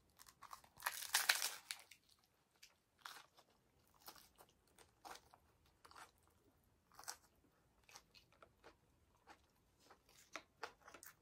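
Close-up bite into a crispy hard corn taco shell, a loud crunch about a second in, followed by irregular crunchy chewing of the shell.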